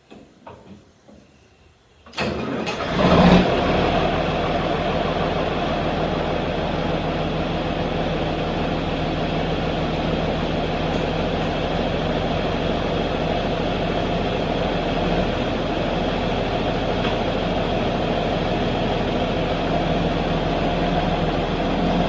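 John Deere 6030 tractor's diesel engine cranking and catching about two seconds in, flaring up briefly, then settling into a steady idle. A few light clicks come before the start.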